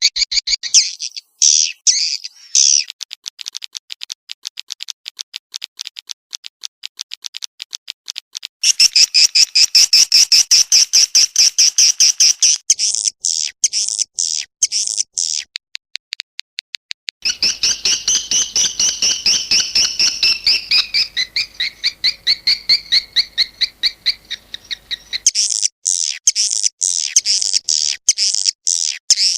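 Swiftlet calls: fast trains of high twittering chirps. They come in spliced sections, each with a different pattern, and the pattern changes abruptly about a third of the way in, about halfway, and near the end.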